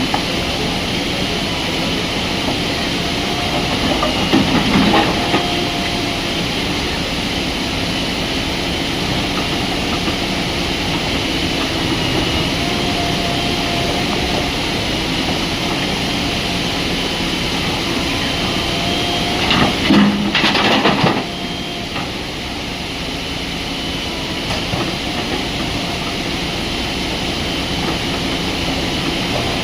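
Heavy diesel machinery running steadily, with two short louder bursts of clatter, one about four seconds in and a longer one around twenty seconds in.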